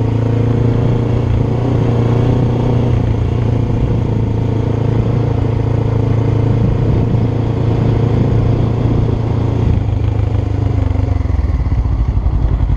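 Motorcycle engine running at a steady pitch; about eleven seconds in it drops lower and settles into a slower, even throbbing beat.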